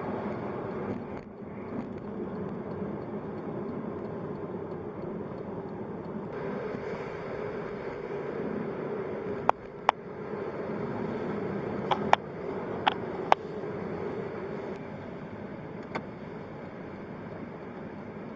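A car driving, with a steady road and engine hum. Several sharp clicks or knocks come in the middle, a few of them in quick pairs.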